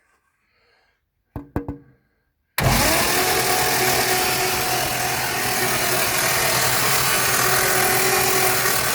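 1960 Holden FB grey motor, an inline six, being cranked over on a crude bench setup. It starts suddenly about two and a half seconds in and keeps turning at a steady speed, a test that the freed engine turns over, with no bad knocks to be heard.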